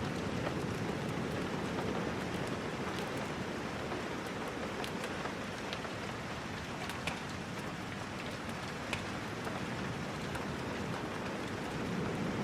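Steady rain falling, with scattered sharp ticks throughout and a low rumbling swell at the start that returns near the end.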